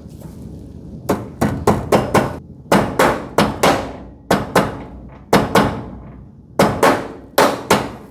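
Hammer striking metal: about sixteen sharp blows in short runs of two to five, each ringing briefly, as garage-door hinge hardware is knocked into place.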